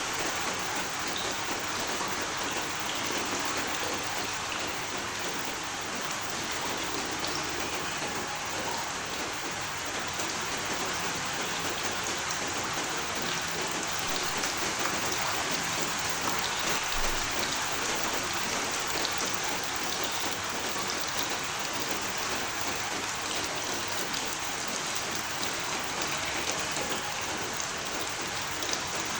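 Steady rainfall, a constant patter of drops on a surface with scattered individual drop ticks.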